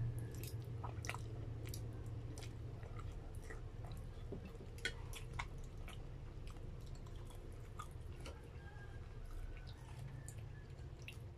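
Close-up chewing of a mouthful of spaghetti, with irregular wet mouth clicks and smacks over a steady low hum.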